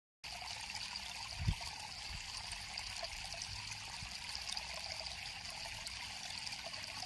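River water flowing and trickling in a steady hiss that cuts in just after the start. A brief low thump sounds about a second and a half in.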